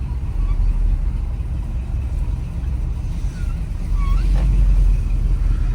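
Classic pickup truck's engine rumbling steadily at low speed.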